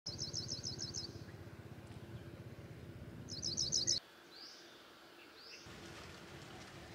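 A bird calling: a quick run of about seven repeated high chirps, then a second run of about five a few seconds later, followed by two rising whistles. Under the first runs lie a low rumble and a steady hum, which drop away about four seconds in.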